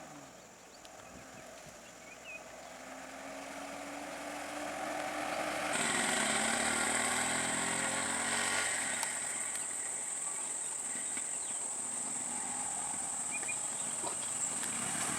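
A motor vehicle's engine draws near and goes by, growing louder to a peak about six seconds in, its pitch dropping as it passes, then running on steadily. A steady high-pitched whine sets in suddenly about six seconds in and carries on, with a few faint chirps before it.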